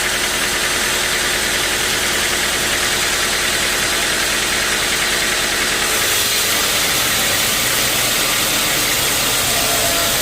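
Sawmill machinery running with a loud, steady mechanical noise and hum; the high hiss changes slightly about six seconds in.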